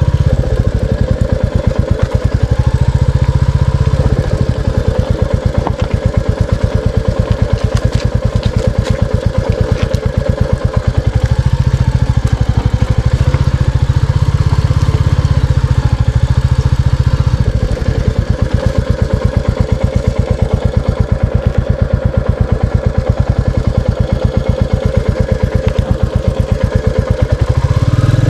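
Royal Enfield Classic 350's single-cylinder engine running with a steady, evenly paced thump, briefly easing off a few times.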